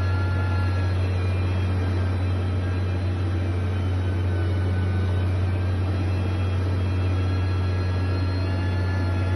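Steady low engine drone of heavy construction machinery running at an even speed, with a faint whine above the hum.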